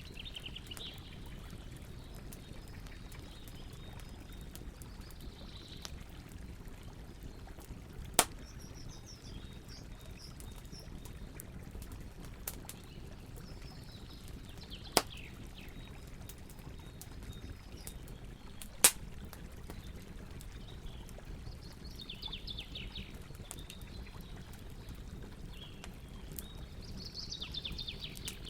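Campfire burning with a steady low rush and scattered small crackles, broken by three loud sharp pops spread through it. Songbirds chirp in short phrases every few seconds.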